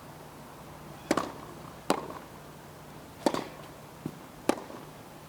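Tennis balls struck by racquets in a rally: four sharp pops about a second apart, with a fainter knock between the last two.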